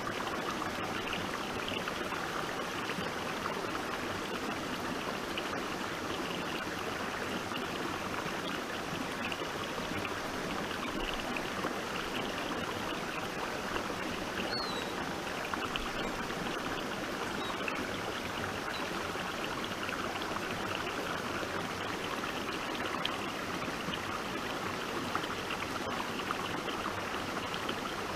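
Stream water running and trickling steadily over rocks.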